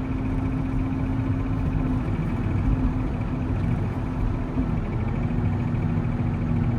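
Volvo L70C wheel loader's diesel engine running steadily, with a constant low hum.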